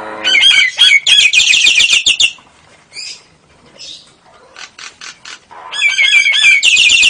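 Nias hill myna singing: two long bursts of rapid, repeated high chattering notes, with short calls and clicks between them.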